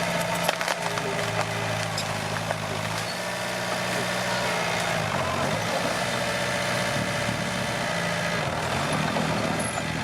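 Komatsu D21P bulldozer's diesel engine running steadily, its pitch shifting about halfway through, with a few sharp cracks in the first second.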